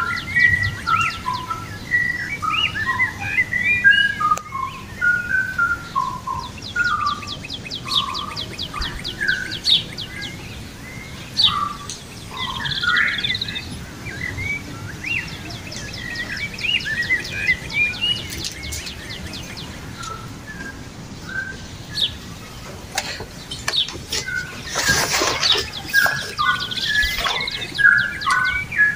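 A chorus of small birds chirping and twittering, many short calls overlapping without a break, with fast ticking trills in places. A brief rushing noise cuts across the chorus near the end.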